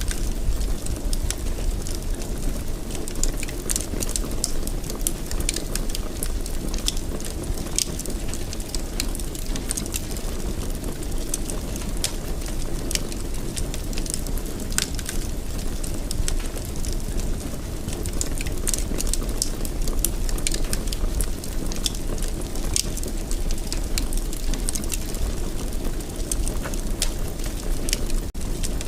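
Fire burning in a fireplace: a steady low rush of flames with frequent sharp crackles and pops scattered irregularly throughout.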